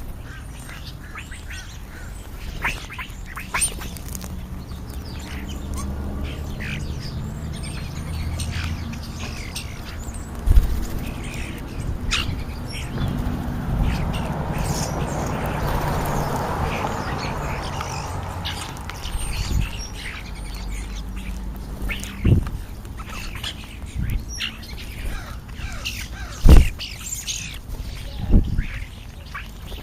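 Wild birds calling at a feeding spot: European starlings chattering and whistling, with harsher calls of American crows among them. A few sharp knocks stand out, the loudest about 26 seconds in.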